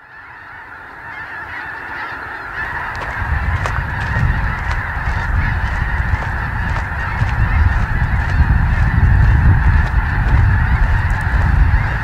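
A huge flock of snow geese calling together, a dense unbroken chorus of honks that fades in at the start and grows louder over the first few seconds. A low rumble runs underneath from about three seconds in.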